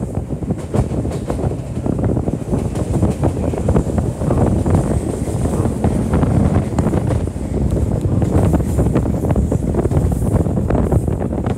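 Kintetsu electric train running along the track, heard from inside the car by the window: a steady rumble of wheels on rail with many short clicks and knocks, mixed with wind noise on the microphone.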